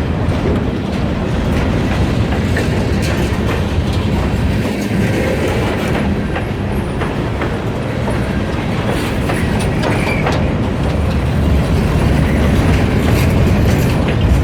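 Freight train cars rolling past with a steady rumble, the wheels clicking over rail joints, and a brief wheel squeal about ten seconds in.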